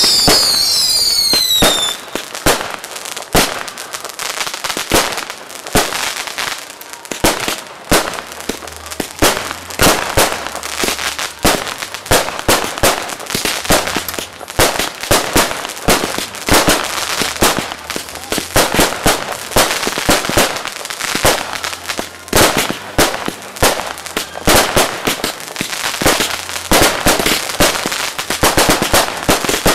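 Close-range fireworks display: aerial fireworks firing and bursting in a rapid, uneven barrage of bangs and cracks. Several falling whistles sound together in the first two seconds.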